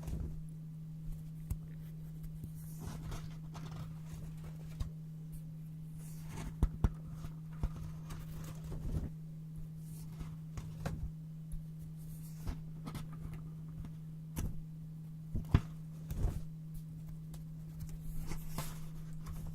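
Scissors cutting brown paper and the paper rustling as it is handled: scattered sharp snips and crinkles, with the loudest snaps about a third and three-quarters of the way through. A steady low hum runs underneath.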